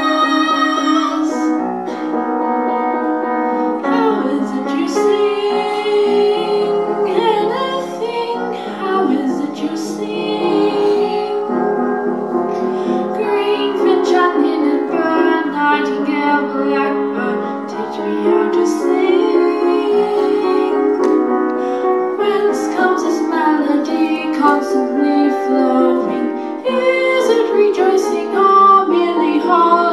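A solo female voice singing a melody with piano accompaniment.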